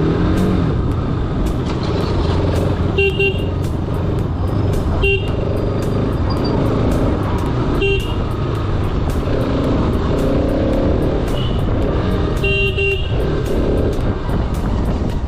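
Bajaj Pulsar RS 200's single-cylinder engine running at low speed in slow city traffic, with road and wind noise. Vehicle horns give short honks about three, five and eight seconds in, and a longer honk near the end.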